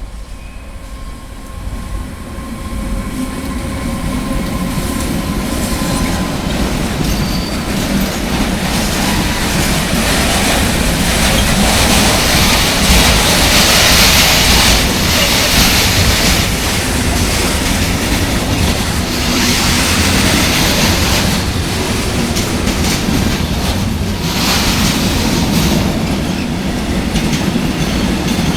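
Long mixed freight train of 36 wagons passing by, its sound building up over the first few seconds and then running on steadily as the wagons roll past, with recurring swells of hissing noise.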